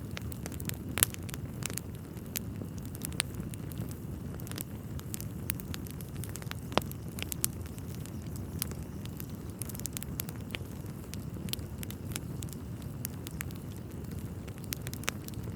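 Wood fire burning in a fireplace: the steady low noise of the flames with frequent sharp crackles and pops of the logs, and louder snaps about a second in and near seven seconds.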